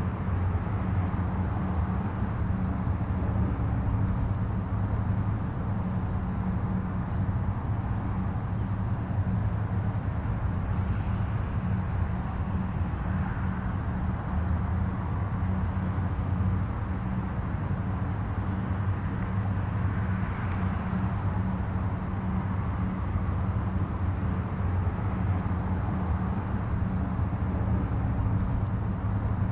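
Distant highway traffic: a steady low rumble of tyres and engines, with a couple of vehicles swelling briefly louder in the middle.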